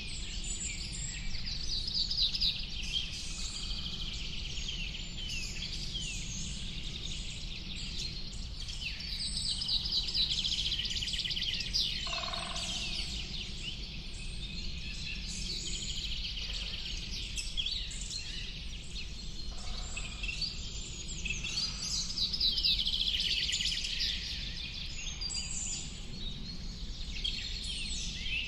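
Chorus of small songbirds chirping and trilling at once, in rising and falling waves, over a steady low rumble; a single lower call stands out about twelve seconds in.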